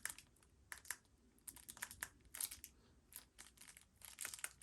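Faint, irregular clicks of the buttons on a small plastic remote control being pressed, some singly and some in quick runs.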